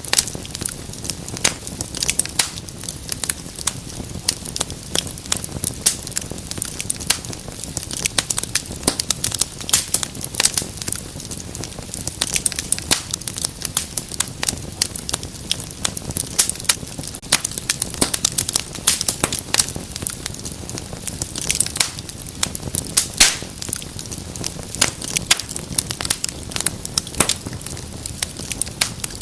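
Wood fire burning in a fireplace, crackling and popping constantly with many sharp irregular snaps over a low steady rumble of the flames.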